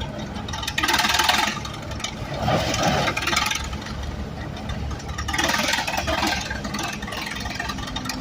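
An engine running steadily, with rough, noisy surges lasting about a second each, three times.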